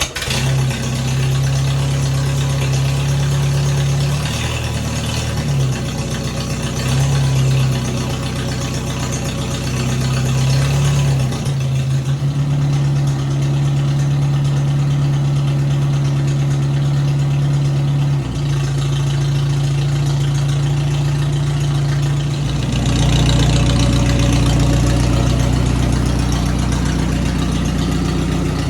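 Farmall M tractor's four-cylinder gasoline engine running at idle just after starting. Its note shifts a few times and runs louder over the last several seconds, as the clutch is worked and the belt pulley is put into gear.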